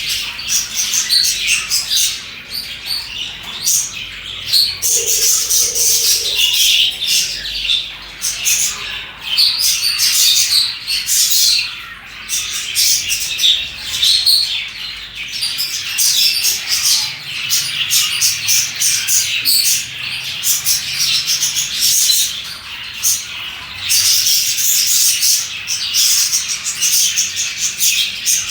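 Several budgerigars chirping and chattering together without a break, many short high chirps and warbles overlapping, with occasional squawks.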